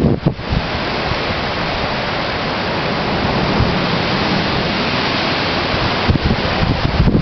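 Strong wind blowing as a steady rush, with gusts buffeting the microphone just after the start and again near the end.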